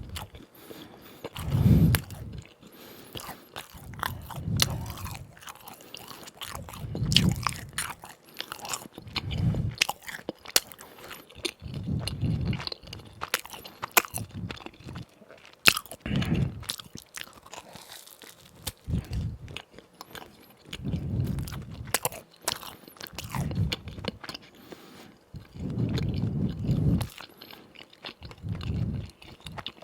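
Close-miked crunching and chewing of crispy fried doughnuts: sharp crackles of the crust breaking, with dull low thumps of chewing recurring about every two seconds.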